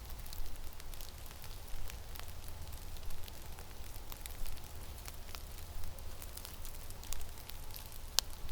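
Blizzard wind rumbling on the microphone, with scattered sharp ticks and crackles, the loudest near the end.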